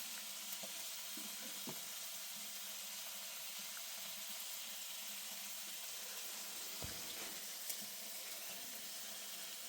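Food frying: a steady sizzling hiss with a few faint clicks.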